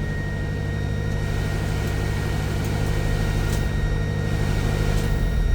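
Japanese mini truck's engine idling steadily. Right at the end the low engine note gets stronger as the air conditioning kicks on.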